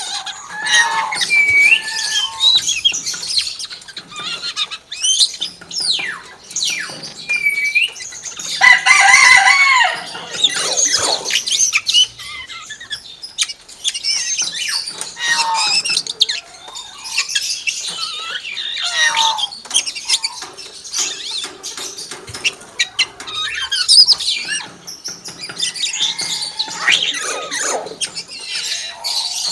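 Hill myna calling: a long run of varied whistles, rising and falling glides, squawks and chatter, with a loud, harsh call about nine seconds in.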